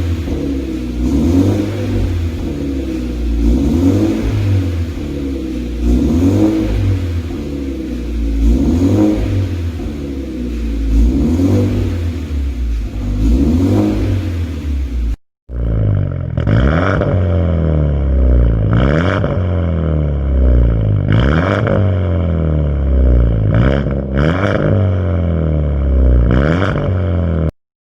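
Genesis Coupe 2.0 turbo four-cylinder revved again and again through a custom exhaust with 100 mm dual tips, each blip rising and falling about every two seconds. The sound cuts out briefly about halfway, and the later revs come with sharper peaks.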